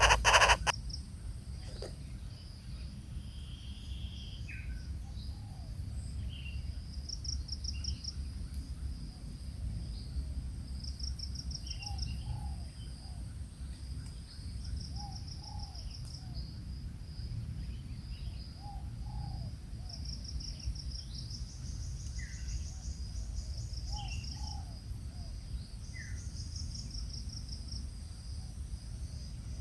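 Outdoor ambience of insects chirping steadily in repeated pulsed trills, with scattered short bird calls, some in pairs, over a low rumble.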